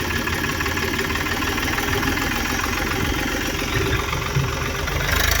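A small motor or engine running steadily with a fast, even rattle.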